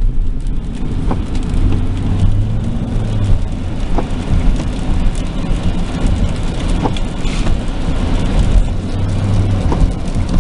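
Car driving on wet roads in rain, heard from inside the cabin: a steady low hum of engine and tyres. Faint short ticks come about every three seconds.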